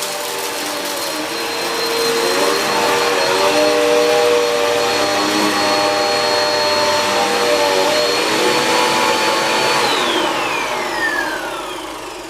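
Budget Value-brand upright vacuum cleaner running with a steady high motor whine. About ten seconds in it is switched off, and the whine falls in pitch as the motor winds down.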